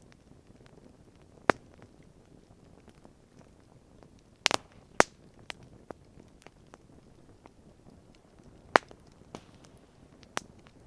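Campfire crackling: sharp wood pops, one loud pop about a second and a half in, a quick cluster around four and a half to five seconds, and another loud pop near nine seconds, with small ticks between over a low steady hiss.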